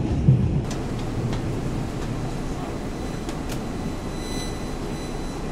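Passenger train running, heard from inside a carriage: a steady rumble of wheels on the rails, with a few light clicks.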